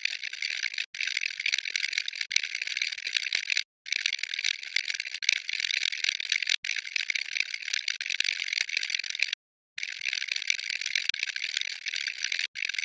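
Watch ticking very fast, a dense run of many small high clicks a second. The ticking cuts out to silence for a moment a few times, longest about three quarters of the way through.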